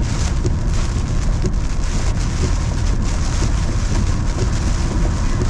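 Heavy rain and strong wind of a severe thunderstorm, with a dense spatter of raindrops and a heavy low rumble of wind.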